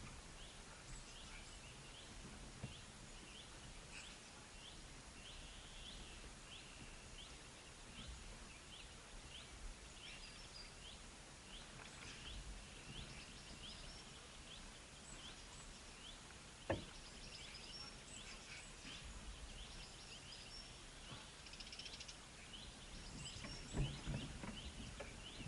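Birds chirping faintly: short, high chirps repeating several times a second. A sharp click sounds about two-thirds of the way through, and a low thump comes near the end.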